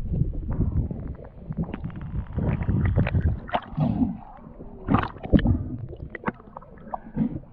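Water gurgling and sloshing, with a low rumble and irregular knocks and clicks; the loudest knocks come about five seconds in.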